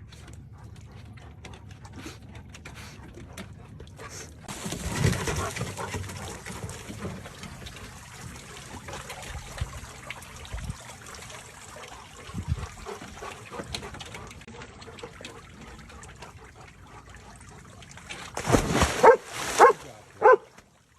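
A steady rushing noise for most of the stretch, then a dog barks about four times in quick succession near the end.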